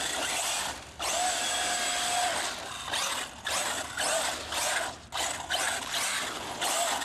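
Electric RC monster truck's Castle Mamba Monster 2200kv brushless motor and drivetrain whining under throttle on a 6S LiPo, in about six bursts with short drops as the throttle is let off between them. A steady whine is held for over a second near the start.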